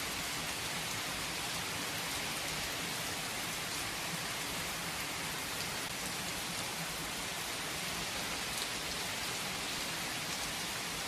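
Steady rain falling, an even hiss of many drops with faint scattered drips.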